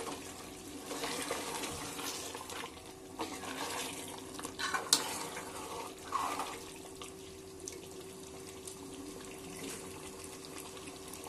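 Mutton masala sizzling as it fries in an aluminium pressure cooker while a steel ladle stirs it, with a few short knocks of the ladle on the pot. This is the bhuna stage: the meat is browning and the oil is separating out on top.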